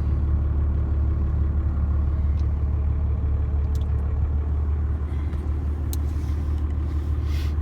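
Dodge pickup's turbo-diesel engine running steadily, a deep low rumble heard from inside the cab. A few faint clicks come through over it.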